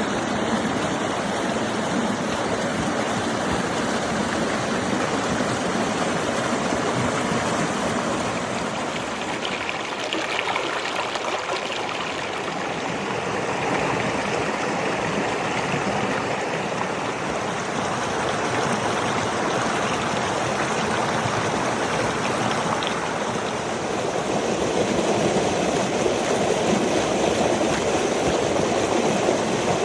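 Rushing water of a mountain river flowing over rocks, a steady full rush.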